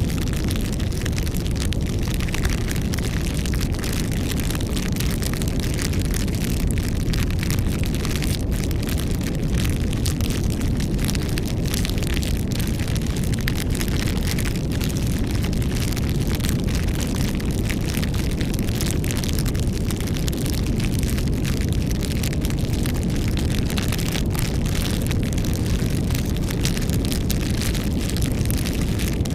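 Campfire burning steadily: a continuous low rumble of flames with frequent small crackles and pops from the burning wood.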